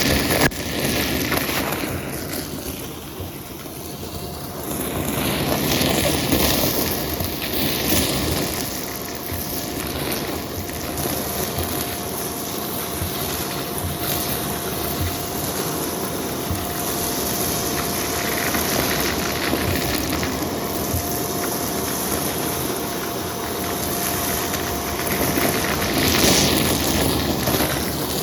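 Vacuum cleaner running: a steady rush of air with a constant whine, dipping briefly a few seconds in and swelling again near the end as it works.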